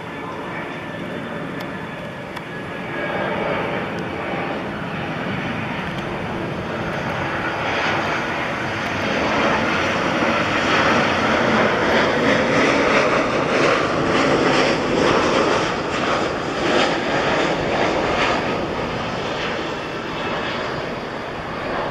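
Airbus A320 jet engines on landing, a rushing rumble that grows louder to a peak about halfway through and then eases off.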